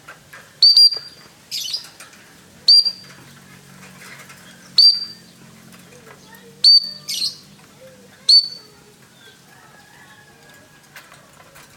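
Five short, sharp, high signal whistles blown about every two seconds to cue a pet lovebird during name training, with the lovebird chirping twice in between.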